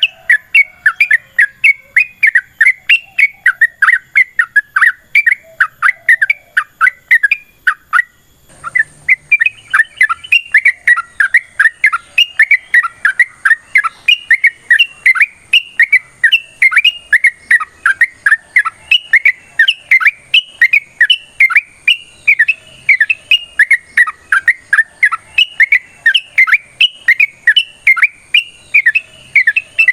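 Yellow-vented bulbul (trucukan) singing a long run of rapid chattering notes, about four a second, with a brief break about eight seconds in.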